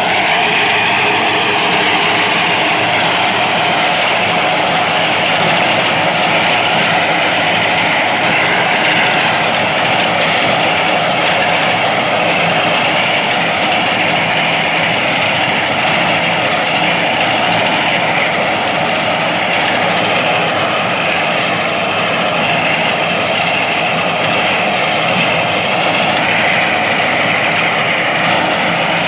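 Tractor with a front-mounted rice reaper, its engine and cutting machinery running steadily and loudly without letup.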